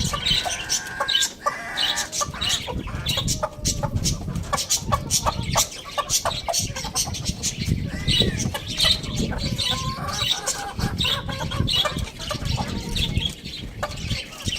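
Chickens clucking and calling, with many short sharp clicks and brief calls following one another throughout.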